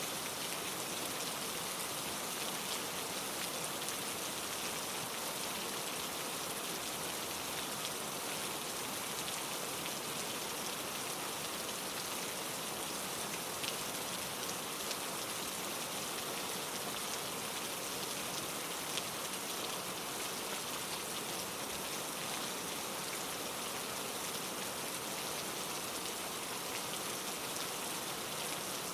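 Steady rain falling, an even hiss with two brief single-drop ticks about halfway through.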